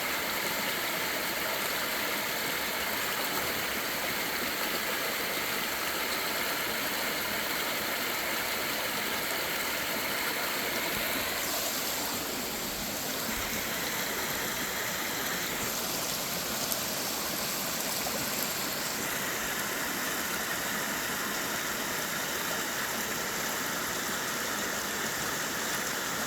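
Small creek waterfall: water splashing and running steadily over a low drop, with the water level low.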